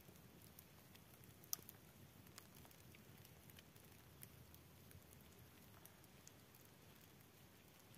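Near silence: faint background hiss with scattered small clicks and crackles, one sharper click about a second and a half in.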